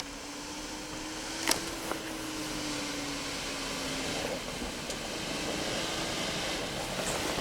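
Off-road 4x4 vehicle running steadily with a faint wavering whine, and a sharp knock about a second and a half in.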